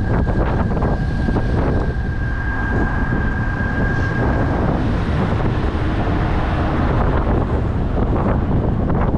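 Wind buffeting the microphone over a low, steady rumble, with a steady high whistle through the first half that fades out, and scattered light knocks.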